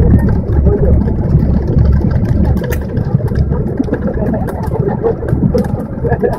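Steady low rumble of a vehicle's engine heard from inside the vehicle in heavy rain, with scattered light ticks over it.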